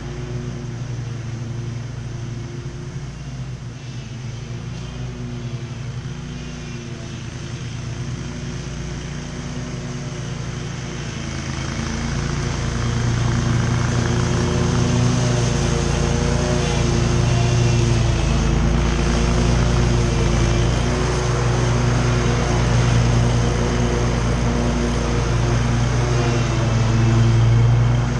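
Commercial lawn mower engine running steadily at mowing speed, getting louder about twelve seconds in.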